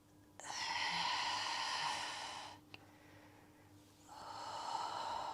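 Two long audible breaths, each lasting about two seconds, the second starting about four seconds in.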